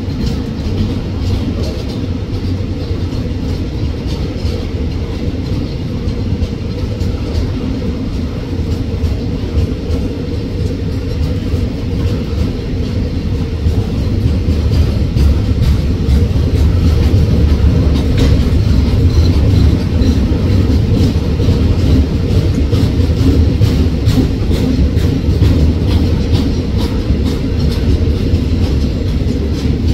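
Container freight train's wagons rolling past on the adjacent track: a steady low rumble of steel wheels on rail, dense with clicks, getting louder about halfway through.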